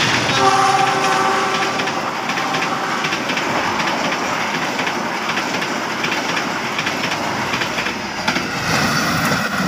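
Passenger coaches of a train hauled by a CC 206 diesel locomotive rolling past at speed: a steady rush of wheels on rail with regular clicks at the rail joints. The locomotive's air horn sounds over it for about the first two seconds. Near the end the sound changes as a coach rolls by close up.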